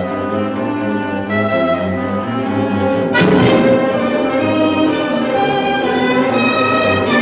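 An orchestra playing, with bowed strings and brass. A sudden loud accent comes about three seconds in.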